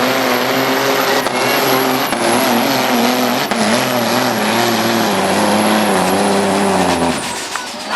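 Diesel engine of a 2003 International 9900 semi tractor running hard under full load on a truck-pull run, its pitch wavering slightly, with a thin high whine above it. About seven seconds in the engine drops away sharply as the driver lets off.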